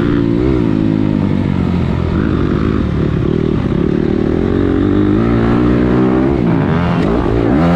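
Motocross dirt bike engine running hard with the rider aboard, its pitch rising and falling with the throttle. The steady note breaks up for a couple of seconds in the middle and dips again briefly near the end.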